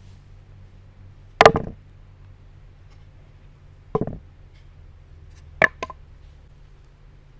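Four separate sharp knocks on a hard surface: the loudest about a second and a half in, a softer one at about four seconds, and a quick pair near six seconds.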